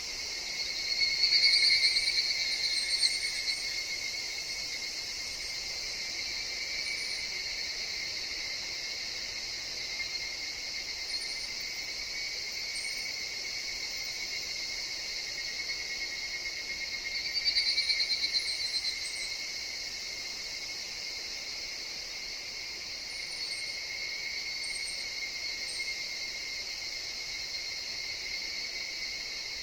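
Higurashi evening cicadas calling in a steady high chorus, with a nearer one swelling up loud twice, about a second in and again a little past halfway.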